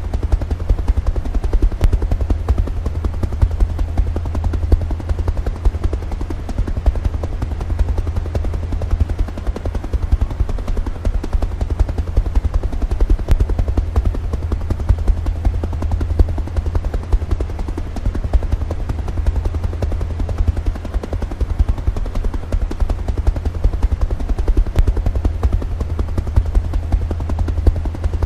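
Helicopter running steadily, its rotor giving a heavy, rapid low thudding that does not change.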